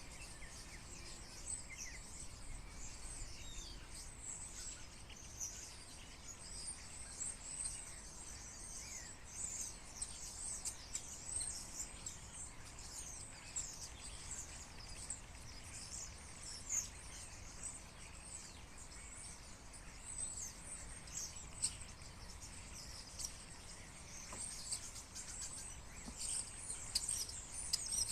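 A large flock of small birds chirping and calling all at once: a dense, unbroken chatter of short, high chirps overlapping throughout.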